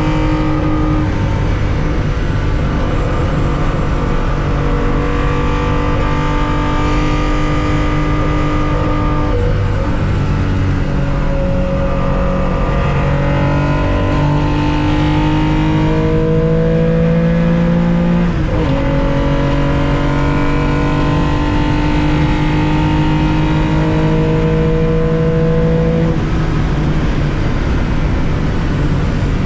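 Onboard sound of a 1965 Porsche 911 2.0's air-cooled flat-six pulling hard, its pitch climbing slowly in each gear. The note drops sharply at gear changes about nine seconds in and again about eighteen seconds in.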